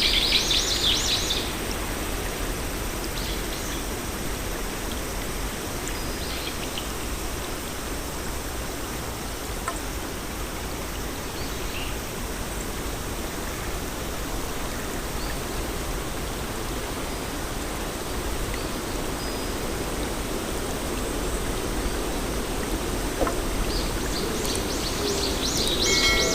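Garden ambience: a steady rushing noise with a bird's quick high chirping at the start and again near the end.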